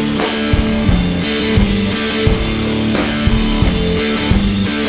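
Live rock band instrumental passage: guitar playing a riff of sustained notes over a drum kit keeping a steady beat, with no singing.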